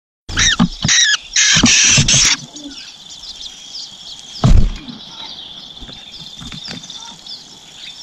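Long-tailed shrikes at the nest: loud, harsh calls in three quick bouts over the first two seconds, then faint repeated short chirps over a steady high insect drone. A loud thump comes about four and a half seconds in.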